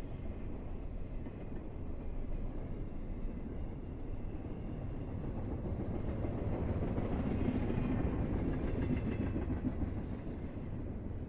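Train rolling along the tracks: a steady low rumble of railcars that swells a little past the middle.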